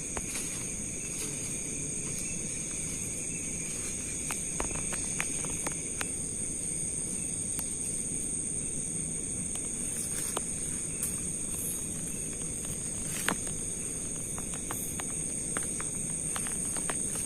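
A night insect chorus keeps up a steady high-pitched drone, with scattered clicks and cracks like footsteps on forest litter. The sharpest crack comes about 13 seconds in.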